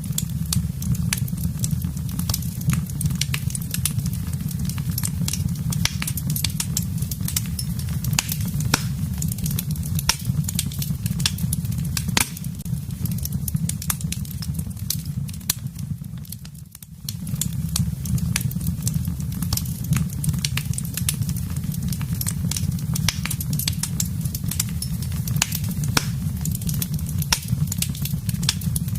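Wood fire burning: dense, irregular crackles and pops over a steady low rumble of flames. The sound dips briefly about two-thirds of the way through, then carries on as before.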